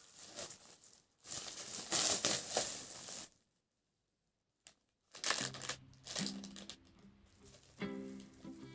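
Rustling and crinkling handling sounds for about three seconds, cut off into dead silence; about two seconds later soft background music comes in, with more rustling over it.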